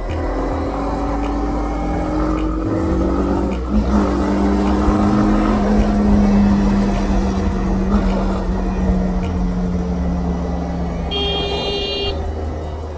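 Honda CB300R single-cylinder engine running under way, with wind rumble. The revs climb, a gear change about four seconds in drops them, and the engine then holds steady. A brief high-pitched tone, like a horn, sounds about a second before the end.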